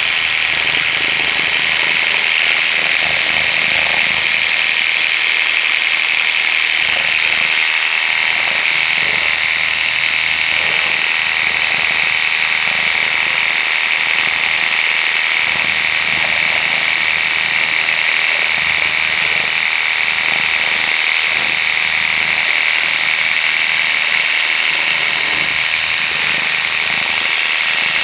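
Worx WG633 Hydroshot cordless pressure washer running continuously with its turbo nozzle, the water jet hissing against a wheel. A steady high-pitched whine sits over the spray noise.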